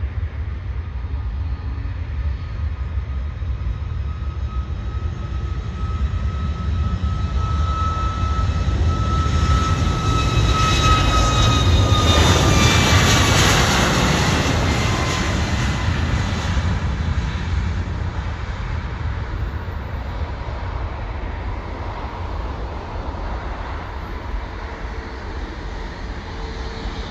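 Boeing 747-400 freighter's four turbofan engines passing close on landing approach. The engine noise builds to its loudest about twelve seconds in, and a whine drops in pitch as the aircraft goes by, then fades slowly.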